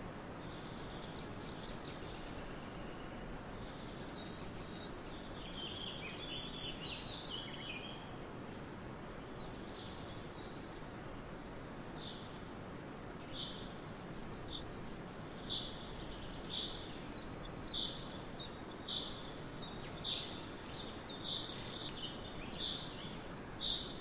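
Birds chirping over a steady outdoor background hiss. In the first half the calls are warbling chirps. From about halfway, one bird repeats a short note roughly once a second.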